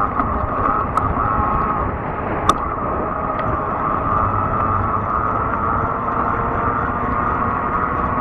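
Fat-tire electric bike being ridden: a steady hum with a low rumble throughout, and two sharp clicks, about one second and two and a half seconds in.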